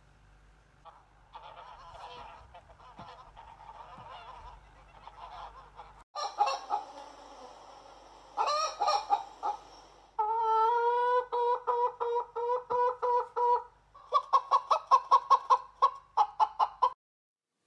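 Geese honking in a run of short clips: first a low flock chatter, then loud repeated honks, ending in a fast series of honks.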